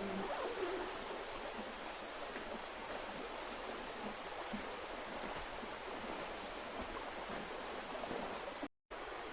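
River water flowing steadily, with a thin high insect trill that pulses every half second or so. The sound cuts out for a split second near the end.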